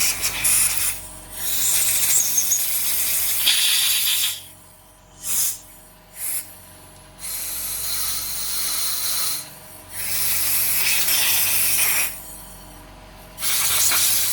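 Compressed air blown in repeated hissing blasts through the jets and small passages of a Yamaha Thunderace carburettor, to clear them. The blasts last a second or more each, with two short puffs about midway.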